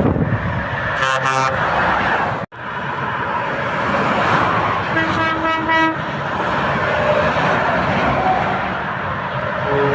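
Truck horn blowing short, rapidly pulsing multi-tone blasts, a 'Turkish whistle' style horn, over steady road traffic noise. One burst comes about a second in, a longer one about halfway, and another starts near the end.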